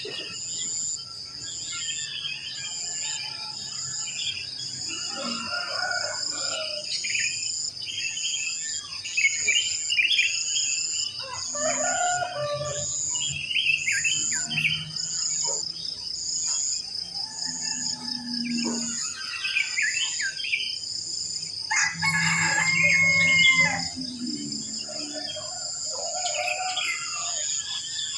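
Dawn chorus of wild songbirds, sooty-headed bulbuls among them, chirping and trilling over a steady high-pitched insect buzz that pulses just under once a second. A rooster crows about 22 seconds in.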